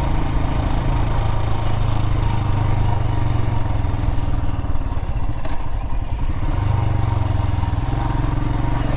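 Royal Enfield Himalayan's single-cylinder engine running under way on a rough dirt road, easing off about halfway through and then pulling again.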